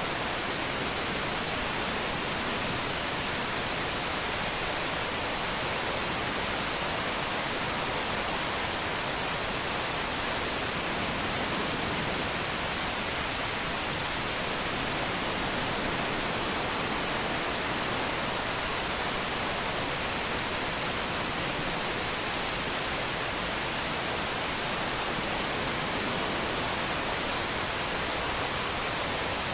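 Steady, unbroken rushing of a waterfall, an even hiss of falling water with no change in level.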